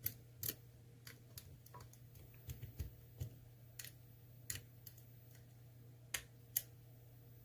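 Lock pick working the pins inside an ASSA Twin pin-tumbler lock: a dozen or so light, sharp metallic clicks at irregular intervals as the pins are probed one by one. A faint steady low hum runs underneath.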